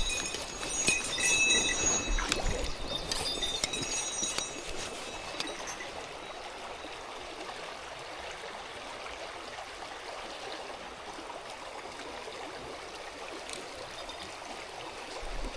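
Mountain stream water running steadily. Brief high tinkling notes come and go over the first few seconds.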